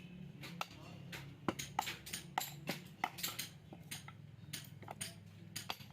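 Irregular sharp metallic clinks and knocks of hand tools working on scrap refrigerator compressor casings, a dozen or more strikes, over a steady low hum.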